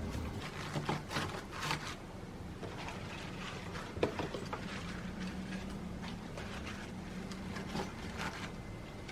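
Scattered small clicks, knocks and rustles of objects being handled, with one sharper knock about four seconds in, over a faint steady low hum.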